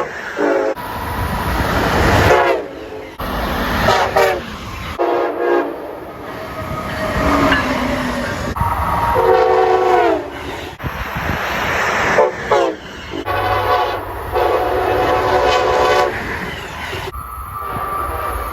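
A run of short clips of locomotive air horns sounding chords, spliced together with abrupt cuts between different horns. In some clips the chord's pitch drops as the train passes, over the rumble of the locomotives and wheels.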